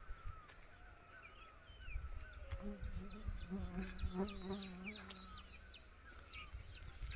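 Outdoor ambience after rain: several birds chirping and calling, with a low, drawn-out voice or animal call in the middle and a low rumble underneath.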